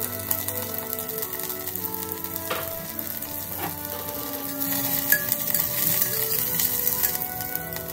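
Celery stems, garlic, shallots and ginger sizzling in hot oil in a clay pot, with a spatula stirring them around in the second half, where the sizzle grows louder. Soft background music runs underneath.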